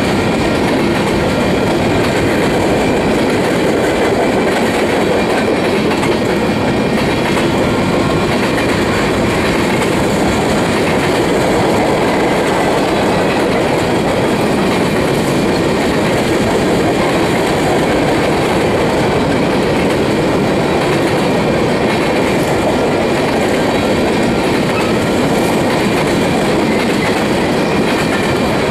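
Freight train of covered hopper cars rolling past: a steady rumble of steel wheels on rail, with a few faint high steady tones above it.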